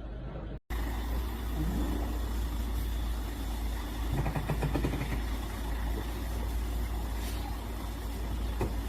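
A heavy vehicle's engine running steadily with a deep low rumble, after a brief break in the sound less than a second in.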